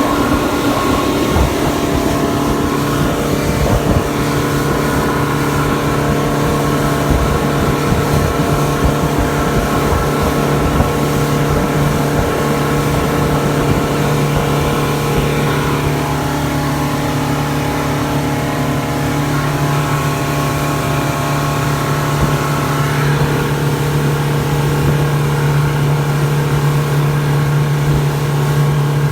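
Motorboat engine running steadily under way, its note shifting slightly about halfway through, over a constant rush of water and wind noise.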